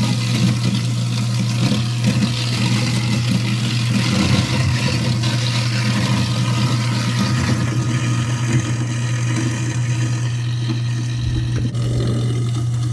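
InSinkErator garbage disposal running with a steady motor hum, water rushing through it down the sink drain. The water hiss thins out about two-thirds of the way through while the motor keeps running.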